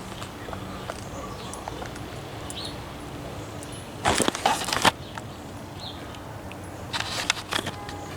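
Bull thistle weeds being pulled from a garden bed: two short bursts of rustling and tearing, about four seconds in and again near the end.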